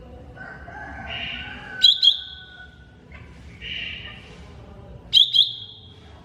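Cucak ijo mini (green leafbird) singing: warbling phrases, broken twice by a pair of loud, sharp notes that run into a held high whistle.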